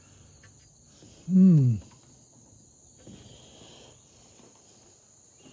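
Crickets chirring steadily, with a man's short hummed "hmm" about a second in, its pitch rising and then falling.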